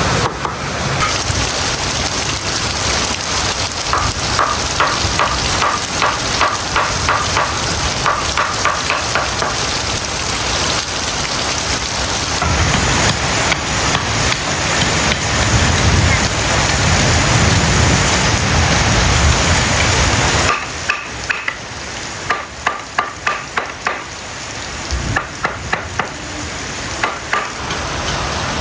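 Heavy rain hissing steadily. It grows louder and deeper for several seconds midway, then eases suddenly about two-thirds through, with a run of sharp taps after that.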